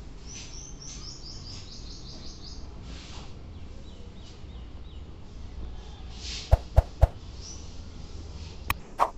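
A small bird chirps in a quick run of short, high, falling notes, then more faintly a little later. About six and a half seconds in come three sharp knocks close together, and two lighter clicks near the end.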